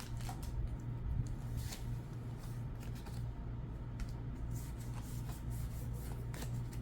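Pokémon trading cards being slid and flipped one after another in the hands, a string of light papery swishes and taps over a steady low hum.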